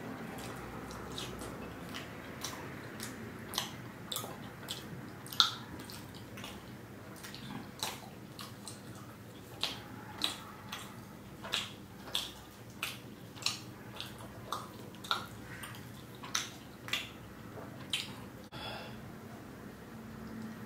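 Close-miked eating: wet mouth clicks and smacks from chewing butter naan and paneer tikka masala. The clicks are sparse at first and come in a fairly regular run of about one and a half a second in the second half.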